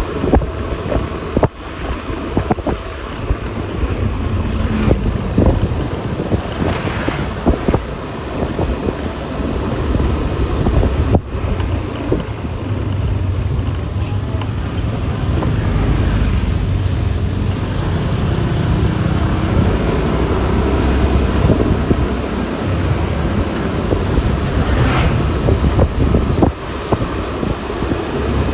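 Wind buffeting the microphone on a moving Yamaha Lexi LX 155 scooter, over the scooter's running and road noise. Two brief swells of noise come about seven seconds in and near the end.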